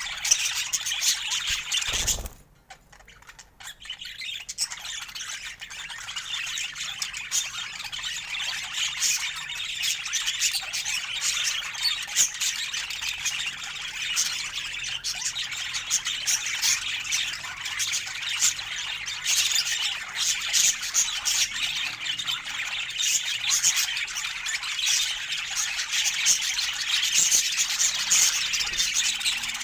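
A flock of budgerigars chattering, with busy warbling, chirps and squawks. The chatter breaks off abruptly about two seconds in and picks up again a second or two later.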